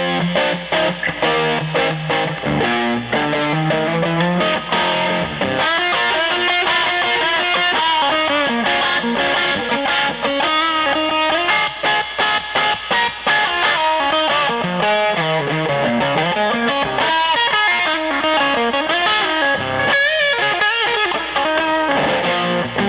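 ES-335-type semi-hollow electric guitar played through an amplifier: a run of single-note melodic lines with bent and wavering notes, mixed with a few low chords.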